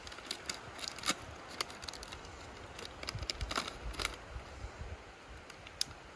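An MRE snack pouch of pretzels being cut open with a knife and handled: the packaging crinkles in a run of irregular sharp crackles and ticks for about four seconds, with a few more near the end.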